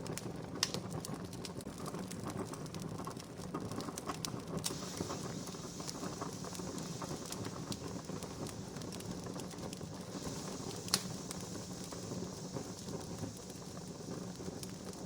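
Wood fire burning with steady crackling and scattered pops, two of them sharper: one about half a second in and one near eleven seconds.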